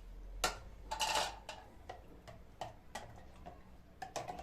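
Irregular light taps and clicks of kitchenware being handled during pickle making, with a short rustle about a second in.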